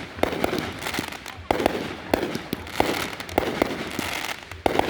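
Fireworks going off in quick volleys of sharp bangs and crackles, a new volley starting roughly every second.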